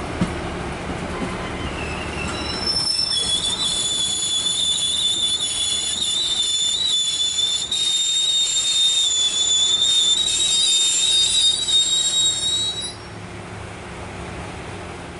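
Train wheels squealing against the rails: a high, steady metallic screech sets in about three seconds in and dies away near the end, over the low rumble of the rolling train.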